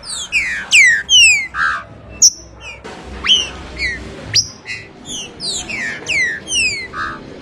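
Green-winged saltator (trinca-ferro) singing a loud run of clear whistled notes, many sliding down in pitch and some sweeping sharply up, in quick repeated phrases.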